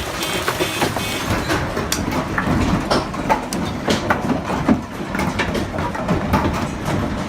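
Large hailstones hitting the ground and hard surfaces, a dense irregular clatter of sharp impacts, some of the stones shattering.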